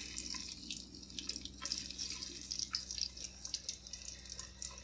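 Pieces of salted jackfruit frying in hot oil in a pan: an even sizzling hiss with many small crackles and pops.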